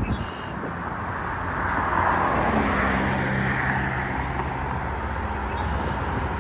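Road traffic: a motor vehicle passing close by, its tyre noise and low engine hum swelling to a peak about two to three seconds in and then easing off.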